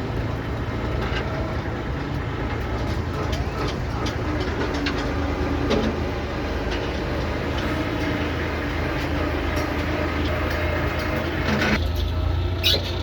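Compact diesel tractor serving as the engine of a small ride-on train, running steadily under load, with the wagons rattling and clicking along behind it.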